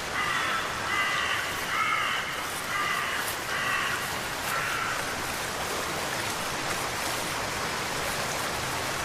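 A crow-like bird cawing about six times in the first five seconds, over a steady hiss of rain and running water.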